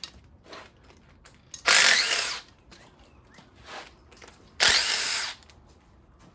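Cordless power driver spinning loosened engine bolts out in two short bursts, each under a second, about three seconds apart, with faint clinks of metal between.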